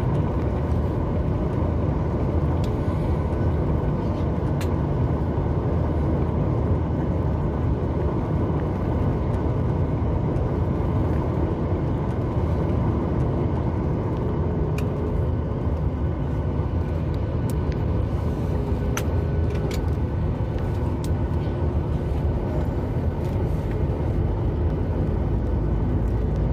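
Steady cabin noise of a Boeing 737 MAX 8 airliner: its CFM LEAP-1B engines and airflow make a low, even rumble inside the passenger cabin, with a few light clicks.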